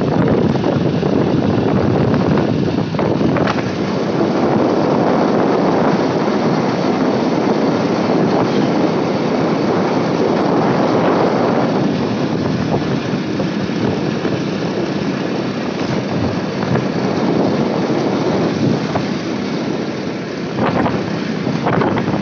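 Steady wind and road noise from riding a motorcycle, the wind buffeting the microphone.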